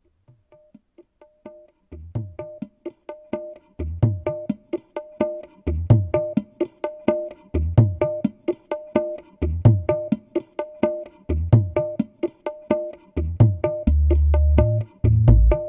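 Yamaha PSR-SX700 arranger keyboard playing a rhythm pattern: quick light percussion ticks, about four a second, with a steady higher note underneath. Short low bass notes join about two seconds in, repeating every two seconds or so, and near the end the bass turns to longer held notes.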